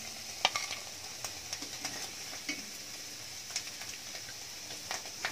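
Oil sizzling steadily in a kadai as golden-brown fried paneer cubes are lifted out with a metal slotted spoon, with scattered light clicks and scrapes of the spoon and cubes.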